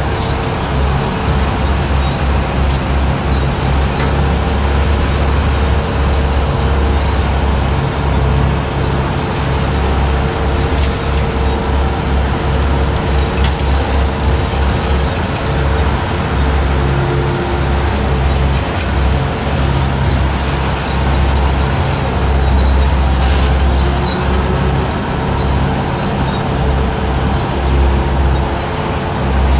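Skid steer engine running steadily while driving a 72-inch brush cutter, a loud low drone that swells and dips as the load changes.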